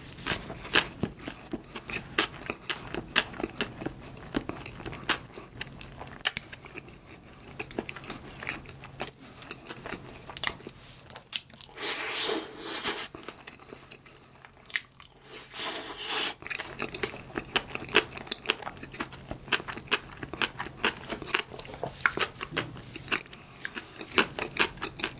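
Close-miked chewing of soft salad bread filled with mashed-potato salad: wet mouth clicks and smacks in quick succession, with two longer, noisier stretches about 12 and 15 seconds in.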